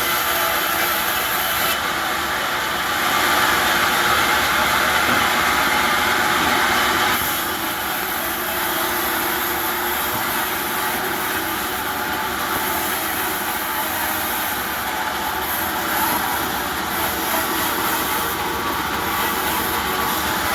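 Steady mechanical running noise, a little louder for a few seconds near the start.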